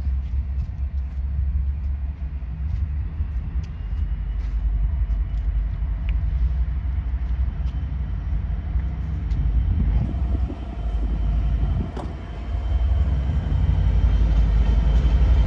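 Train rumbling past, a deep steady rumble that grows louder about two-thirds of the way in, with one sharp click near the end.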